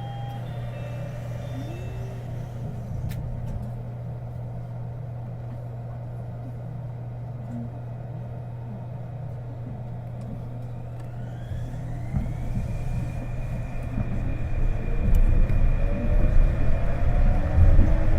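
Cabin running sound of a Kobe New Transit 2020-series rubber-tyred automated train, with a steady low hum. About twelve seconds in, the traction motor whine rises in pitch over several tones and the rumble grows louder as the train accelerates.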